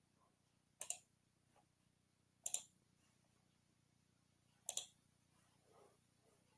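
Three sharp computer clicks, each a quick pair, spaced about two seconds apart, with only faint room tone between them.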